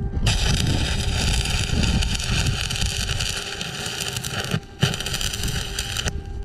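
Electric arc welding a steel pipe brace to a fence post: a steady sputtering crackle of the arc, broken off briefly about two-thirds of the way through, then struck again and stopped shortly before the end.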